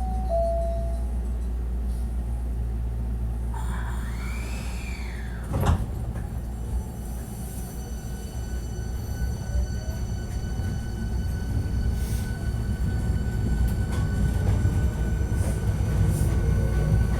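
Inside a Hankyu 1300 series train car: a brief door chime, the doors sliding shut with a thump about six seconds in, then the train pulling away, its motor whine rising in pitch near the end over a steady rumble.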